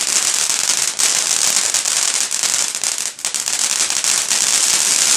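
Fireworks going off in a dense, continuous crackle of many rapid small pops.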